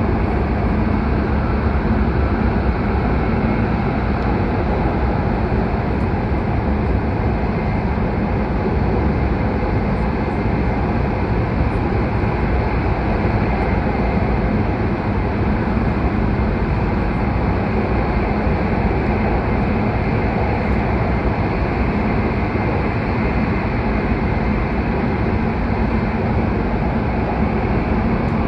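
H5-series Shinkansen train running through a tunnel: a constant, unchanging rumble of wheels and track, heard from on board.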